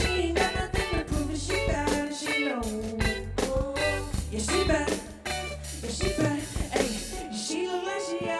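Live band playing: drum kit hits, a bass line and guitar under a lead melody that slides up and down in pitch. About seven seconds in, the bass and drums drop away, leaving held guitar chords.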